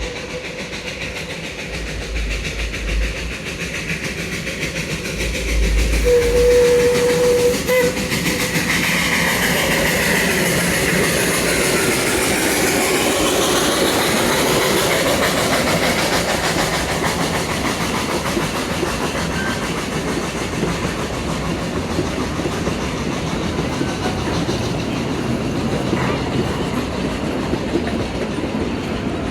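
Puffing Billy narrow-gauge steam train chugging along with the clickety-clack of its wheels on the rails. It grows louder about seven seconds in and then runs steadily, with a short steady tone just before that.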